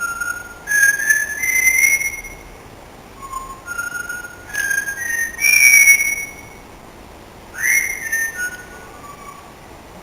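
Pet parrot whistling a tune in three phrases of clear, stepped notes, each phrase climbing to a higher held note.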